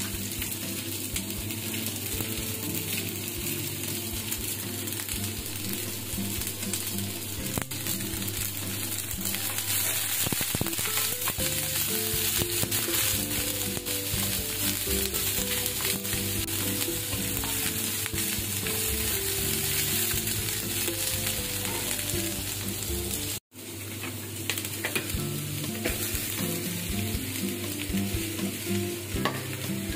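Sliced onions and shrimp sizzling steadily in oil in a cast-iron skillet, stirred now and then with a wooden spoon. Soft background music with stepped low notes plays underneath. The sound cuts out for a moment about two-thirds of the way through.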